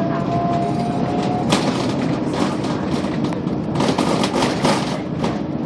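Scania K280UB city bus under way, heard from inside: steady engine and road noise, with a thin whine that rises slightly and stops about a second and a half in. Sharp knocks and rattles from the body come about a second and a half in and again near the end.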